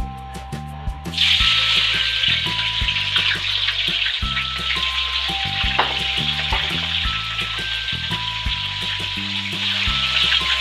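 Tofu cubes deep-frying in hot oil in a wok: a loud, even sizzle that starts suddenly about a second in, as the tofu goes into the oil.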